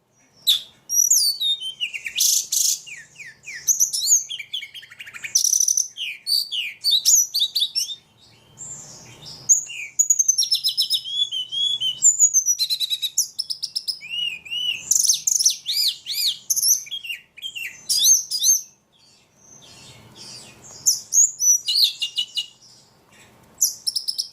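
A ledekan songbird singing a long, energetic, varied song of rapid chirps, trills and sweeping whistles, with two short pauses.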